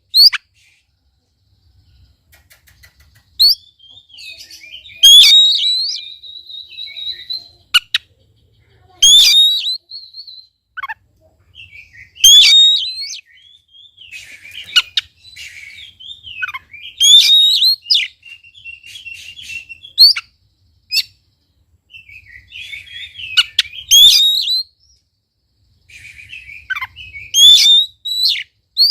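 Oriental magpie-robin (kacer) in full song: loud whistled phrases, each a fast rising sweep with sharp high notes, come about every three to four seconds, with quieter twittering and chattering between them.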